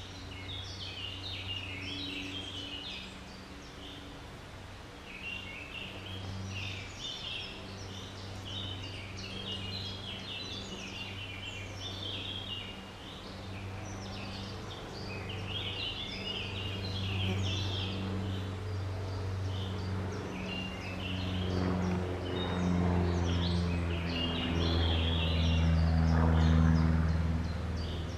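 Small woodland birds singing and chirping in a busy, continuous chorus. A low steady hum runs underneath and grows louder in the last several seconds.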